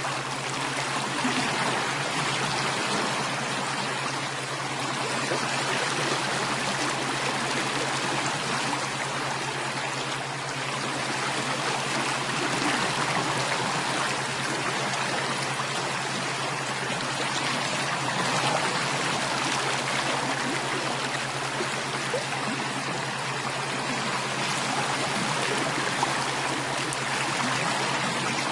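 Flowing stream water, a steady, unbroken rush and babble.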